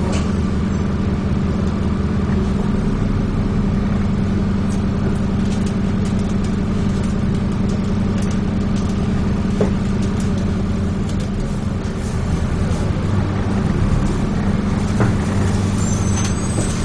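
Dennis Trident 2 double-decker bus engine running under way with a steady low drone, heard from inside the bus, with faint rattles and clicks over it.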